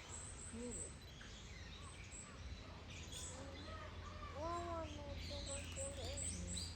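Bush dogs giving high, bird-like squeaking contact calls, a series of short arching squeaks with one longer rising-and-falling whine about four and a half seconds in.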